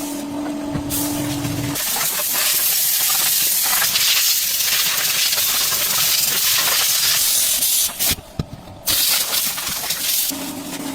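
A steady hiss, starting about two seconds in, breaking off briefly about eight seconds in and then resuming, with a steady hum before and after it.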